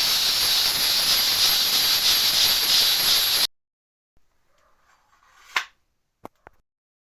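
A loud steady hiss that cuts off abruptly about three and a half seconds in, followed after a pause by a sharp click and then two smaller clicks.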